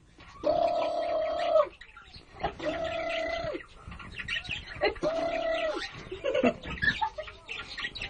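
A pet bird giving three long, steady calls of level pitch, each about a second long, followed by a few shorter chirps.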